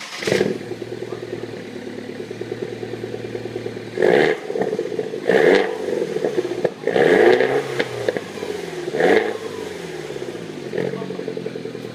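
Mini Cooper R56 John Cooper Works exhaust, its turbocharged four-cylinder idling and revved four times in short throttle blips, the third one held a little longer.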